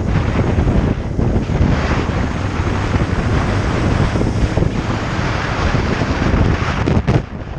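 Heavy wind buffeting on the microphone of a moving motorcycle, with the engine and road noise underneath; it dips briefly near the end.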